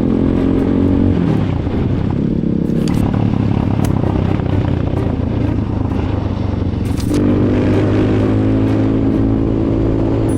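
Kayo enduro dirt bike engine running under a rider on the move: the steady engine note falls away about a second in, runs rougher for a few seconds, then comes back strong and steady about seven seconds in. A few sharp clicks and clatters are heard over it.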